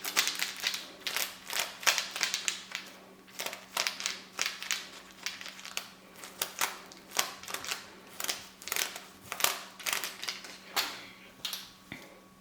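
Close handling noise: a quick irregular run of crisp clicks, crackles and rustles, several a second, dying away near the end.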